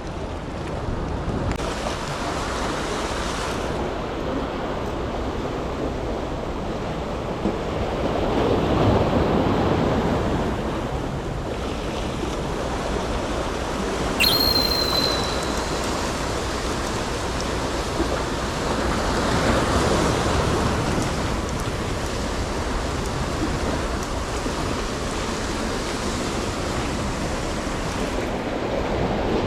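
Rough sea waves surging and washing, swelling in loudness roughly every ten seconds, with wind. A brief high chirp about halfway through.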